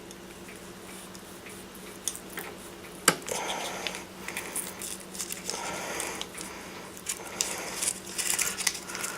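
Scraping, rustling and small clicks as a wedged piece of cardstock is worked out of an RC brushless motor's can, with one sharp click about three seconds in.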